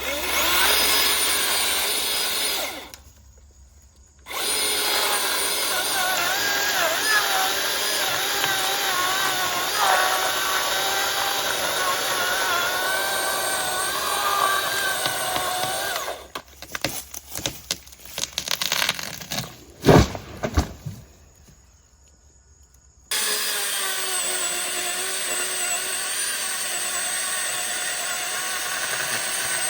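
Milwaukee M18 FUEL 20-inch battery chainsaw running and cutting wood, its motor and chain whining with a pitch that wavers under load. It stops twice: the first time briefly, the second time giving way to a run of knocks and cracks with one loud crack. It then runs steadily again near the end.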